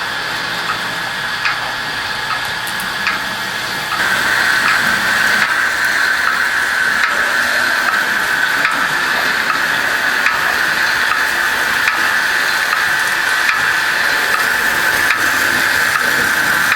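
Märklin HO-scale model locomotive running on track: a steady small-motor whine with scattered clicks of wheels over the rail joints. It gets louder about four seconds in.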